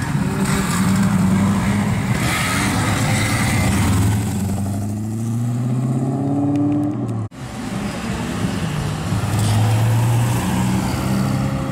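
Classic Dodge Charger's engine pulling away, its note climbing steadily in pitch as it accelerates off. About seven seconds in, an abrupt cut to a Ford Capri's engine running close by as it moves off.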